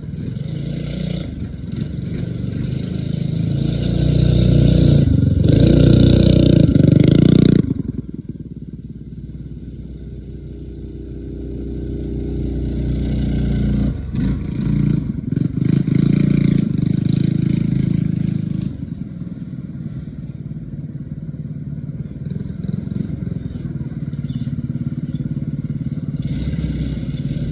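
Stage 1 Predator 212 single-cylinder engine on a mini bike running under throttle. It climbs to a loud peak, then drops off abruptly about eight seconds in as the throttle closes, and climbs again for a few seconds before settling to steadier running.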